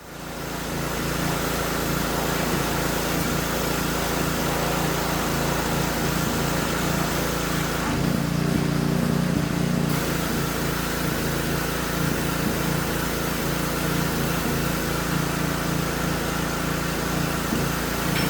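A motor running steadily, with a constant low hum under a wide noise; the hum grows a little stronger about halfway through.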